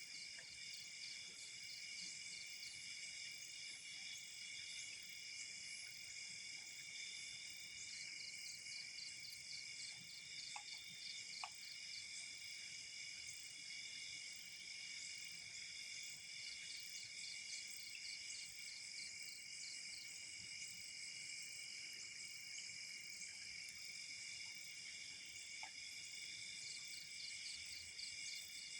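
Steady, faint chorus of night insects, with a high pulsing trill that comes and goes in bouts of a few seconds.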